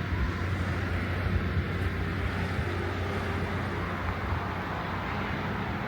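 Steady wind on the microphone with distant ocean surf.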